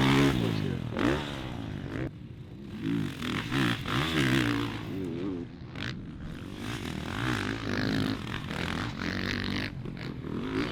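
Motocross dirt bike engines revving, the pitch rising and falling over and over as the throttle is opened and closed.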